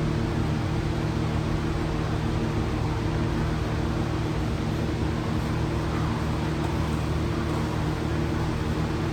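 A machine running steadily, a constant hum with no change in speed.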